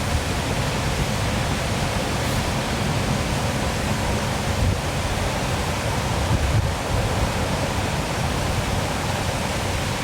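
Waterfall running, a steady, unbroken rush of falling water.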